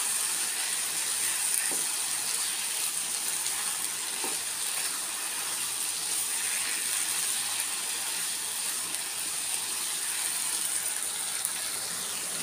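Prawns, capsicum and onion frying in a pan with a steady sizzle as the prawns' water cooks off and the masala thickens, with a wooden spatula stirring and scraping through it.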